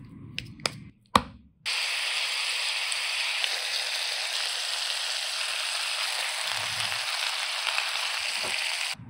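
Small ground-beef burger patties sizzling steadily in a frying pan. The sizzle starts suddenly about one and a half seconds in and cuts off just before the end. Before it come a few short clicks and knocks as raw mince is shaped by hand.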